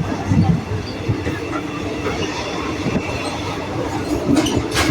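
Passenger train running, heard from inside the carriage: a steady rumble of wheels on the track, with a few knocks and a couple of sharp clatters near the end.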